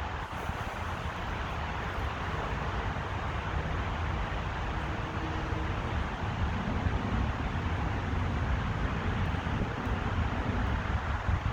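Steady road-traffic noise with wind rumbling on the microphone, getting a little louder about halfway through.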